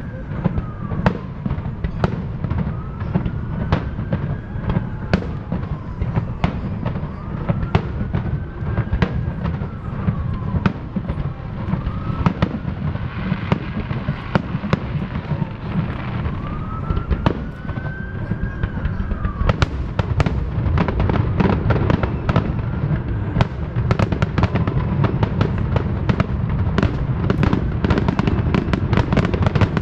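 Fireworks show: a rapid string of bangs and crackles over a constant low rumble, coming thicker and faster in the last third. Through the first half a rising-and-falling wailing tone repeats about every two and a half seconds.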